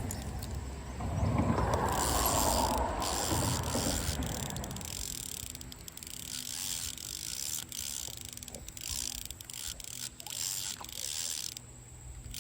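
Fishing reel being cranked to retrieve a lure, a steady geared whir with light ticking. A louder rushing noise fills the first four seconds or so.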